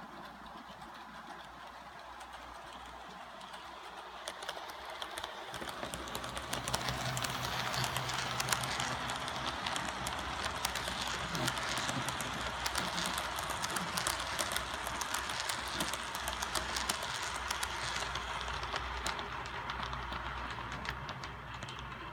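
HO-scale model freight train hauled by an Atlas Alco C-424 locomotive rolling along the track: a steady rumble of wheels and motor with many quick sharp clicks, growing louder about five seconds in and easing a little near the end.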